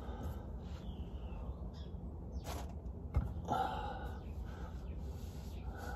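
Outdoor ambience of birds calling over a steady low rumble, with a couple of light knocks near the middle.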